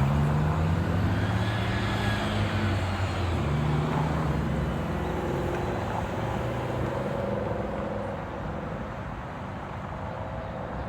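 Vehicle noise: a motor's low tone rises twice in the first five seconds as a vehicle pulls away, over steady road roar that eases off near the end.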